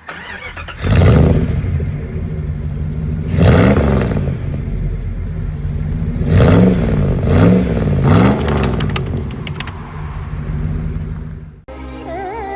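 A vehicle engine revving in repeated bursts, its pitch climbing and falling back about five times over a steady running drone. The engine sound cuts off suddenly near the end and music begins.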